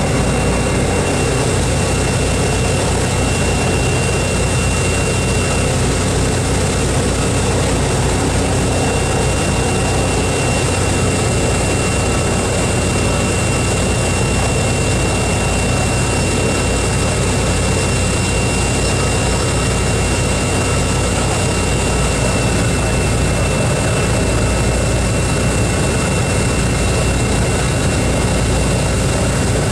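Boeing B-29 Superfortress's four Wright R-3350 radial engines running steadily: a loud, even drone with a thin high whine held through it.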